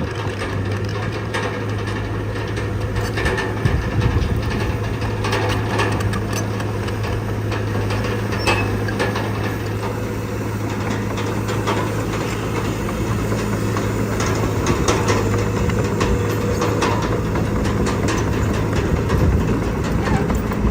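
Diesel engine of heavy earthmoving machinery running steadily, with scattered metallic clanks and rattles throughout.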